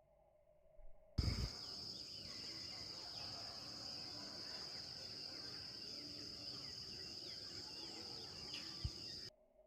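Outdoor ambience that starts abruptly about a second in with a thump and cuts off suddenly near the end: a steady high-pitched insect trill under many short scattered bird chirps, with a second thump just before it stops.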